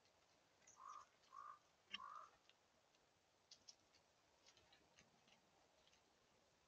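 Birds calling faintly: three short calls of the same pitch about half a second apart, then scattered thin, high chip notes.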